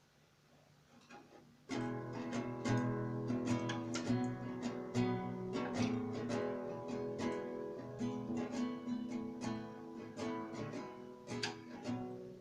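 Acoustic guitar strumming chords, starting suddenly about two seconds in after a quiet moment and playing an instrumental intro.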